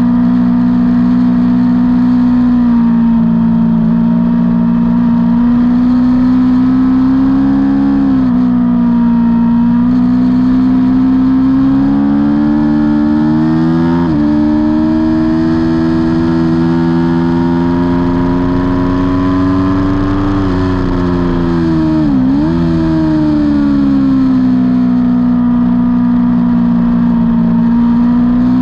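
Aprilia Tuono V4's V4 engine running hard, heard from on board. Its pitch climbs and settles through the gears, with a few quick breaks in pitch at gear changes, one a sharp dip and recovery about three-quarters of the way through.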